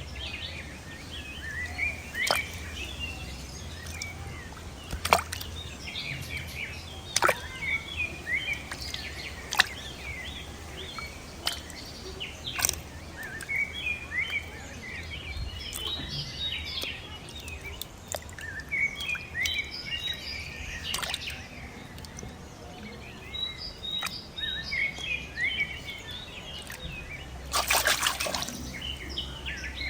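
Many small birds chirping over a steady low hum, with scattered sharp clicks and a short rush of noise near the end.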